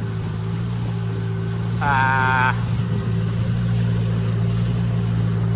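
A boat's engine running steadily under way, a constant low hum, with a brief held voice call about two seconds in.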